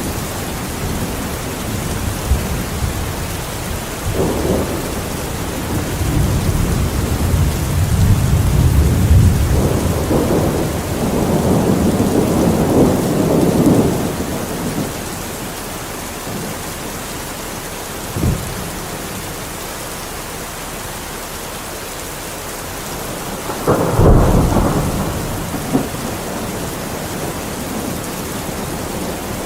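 Steady rainfall with thunder: a long low rumble swells and fades through the middle, then a short thump and, a few seconds later, a sharper, louder clap that rolls off.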